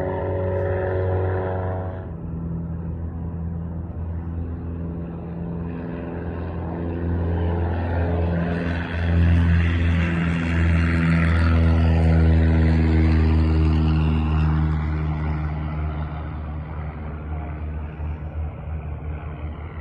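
Propeller light aircraft's engine passing by, growing louder to a peak about halfway through and then fading. A separate steady tone stops about two seconds in.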